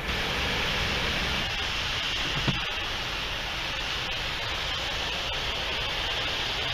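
Steady rushing noise over a low rumble, like a vehicle sitting idle, with a single dull knock about two and a half seconds in.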